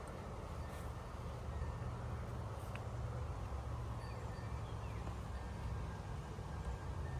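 Wind buffeting the microphone outdoors: a steady low rumble with rustling noise above it, and a few faint high chirps about halfway through.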